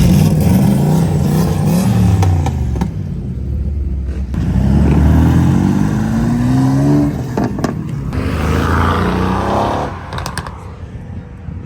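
Car engines accelerating hard past, the engine note climbing in pitch over several pulls. The sound fades near the end.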